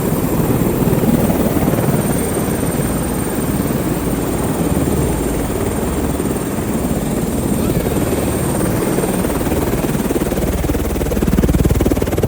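Helicopter running steadily: dense low rotor and engine noise with a thin, high, steady turbine whine, growing a little louder near the end.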